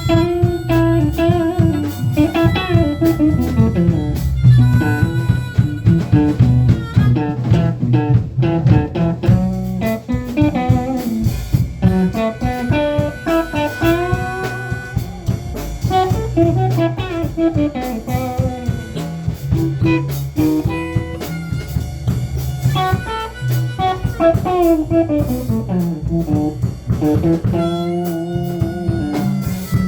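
Blues band playing an instrumental break: a lead guitar with bending notes over bass and drums.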